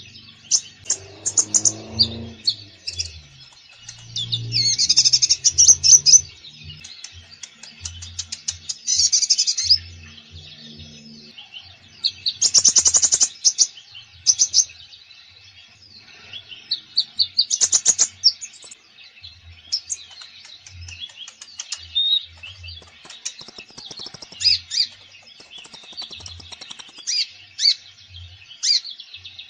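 Konin cage bird singing vigorously: bursts of fast, high trills every few seconds, about six of them, mixed with many short high chirps. Soft low thuds recur throughout.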